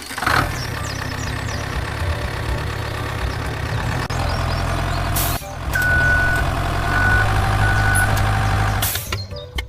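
Engine running steadily, with a brief break about halfway, followed by three short high beeps.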